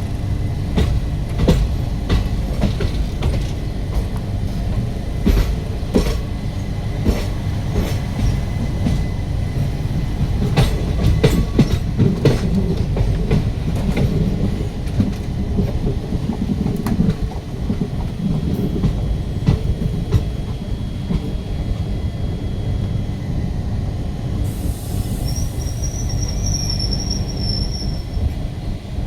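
Passenger train running on rails with a heavy low rumble and many sharp wheel clicks over rail joints, which thin out about halfway through. Near the end a faint high wheel squeal is heard.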